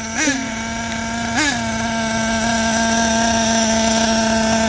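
Electric motor of a radio-controlled car whining steadily, its pitch jumping up and back down twice in the first second and a half as the throttle is blipped, then holding one tone.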